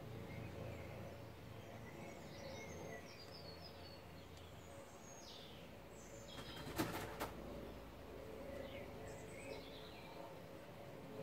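Small birds chirping and singing faintly in short phrases over a low background rumble, with a brief burst of sharp clicks about two-thirds of the way through.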